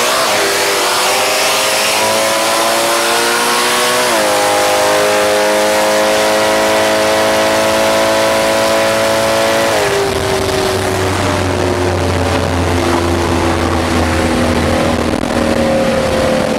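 Car engine pulling hard at full throttle over heavy wind rush: its pitch climbs steadily, drops sharply at a gear change about four seconds in, climbs again, then falls away about ten seconds in as the throttle is lifted at the end of the pull.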